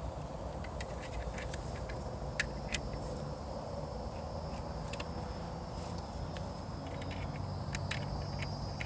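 Scattered light clicks and taps of flat washers being handled and fitted onto the jet pump's mounting studs, two sharper clicks about two and a half seconds in, over a steady background hum.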